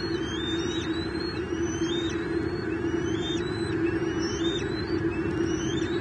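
A bird calling: short, high, rising whistled notes repeated about every half second, over a steady background noise.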